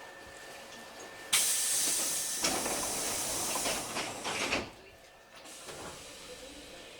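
A sudden loud hiss of compressed air from a Hankyu 3300 series train's pneumatic system, lasting about three seconds and cutting off abruptly. It is typical of a stopped train's air-operated doors or brakes venting.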